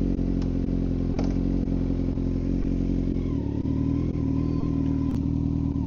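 Kawasaki Z900's inline-four engine running steadily at idle through a full M4 aftermarket exhaust, its note shifting slightly about three seconds in.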